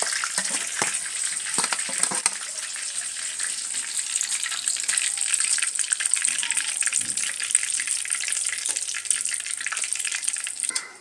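Kienyeji chicken deep-frying in hot oil: a steady sizzle with many scattered pops and crackles, which drops away just before the end.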